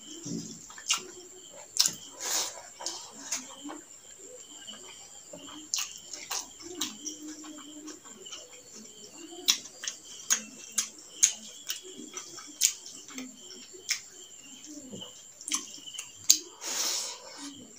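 Close-up eating sounds of rice and chicken gizzard curry eaten by hand: wet chewing, lip smacks and sharp mouth clicks, with two longer noisy sounds about two seconds in and near the end. A steady high insect trill, crickets, runs underneath.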